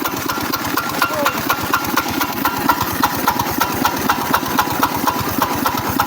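maXpeedingrods 212cc single-cylinder four-stroke OHV gas engine running steadily, with a regular tapping knock a few times a second over the firing. The owner hears it as a knocking noise and says the engine isn't running right.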